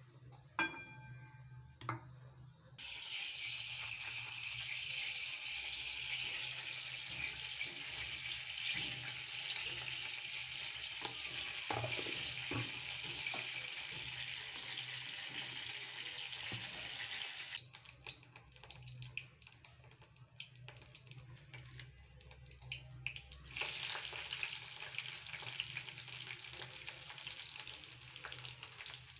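Hot oil sizzling in a kadai as ingredients go into it, sliced capsicum among them: a steady hiss that starts about three seconds in, drops away for about six seconds past the middle, then resumes. Two sharp knocks come just before the sizzling starts.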